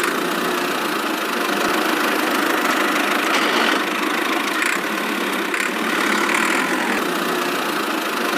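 A small motor running steadily, an even engine-like hum with no change in speed.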